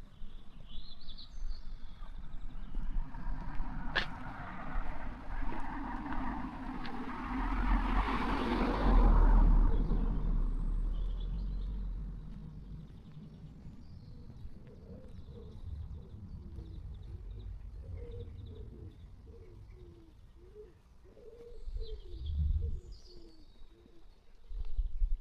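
A car passing on the road: its tyre and engine noise builds over several seconds, is loudest about nine seconds in and fades away by about twelve seconds. Birds chirp at the start and again near the end.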